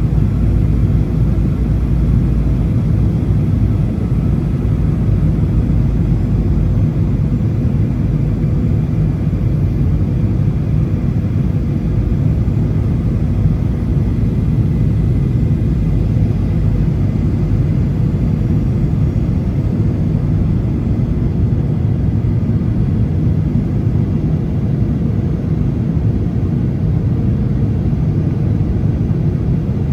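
Steady low rumble of a Boeing 737 heard from inside the passenger cabin: engine and airflow noise with a faint steady hum above it.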